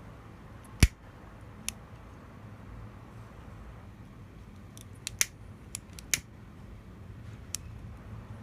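A series of sharp, short clicks from handling a small battery-powered electric lighter and its parts: one loud click about a second in, then a quick cluster of several clicks a few seconds later and a last one near the end.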